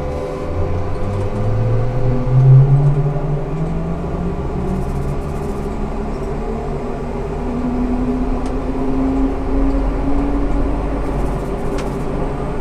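Ikarus 280T articulated trolleybus with GVM traction equipment pulling away: its electric traction motor whines, rising in pitch as it gains speed, loudest about two and a half seconds in. A second, higher whine climbs again from about seven to ten seconds in, over a steady low rumble.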